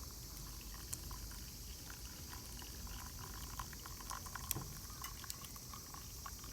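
Hot liquid being poured, with faint bubbling crackles, over a steady high chirring of insects; one sharp click about four and a half seconds in.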